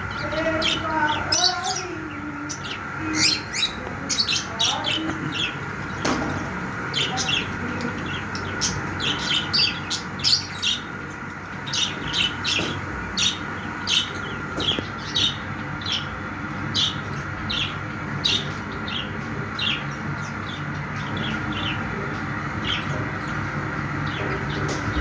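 Small pet parrots chirping: a quick run of short, sharp high chirps that thins out over the last several seconds, over a steady background hum.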